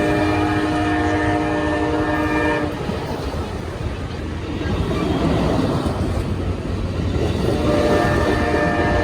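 Locomotive air horn sounding a chord: one blast ending about two and a half seconds in, a gap filled with the rumble of the passing train, then a second blast starting near the end.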